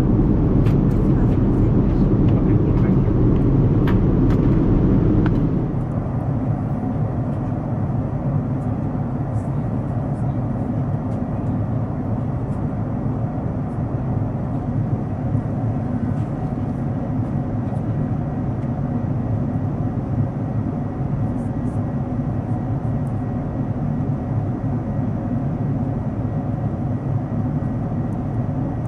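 Steady rumbling roar of a Boeing 787-9 airliner heard from inside the cabin, with a few light clicks in the first seconds; the noise steps down to a lower, steady level about five seconds in.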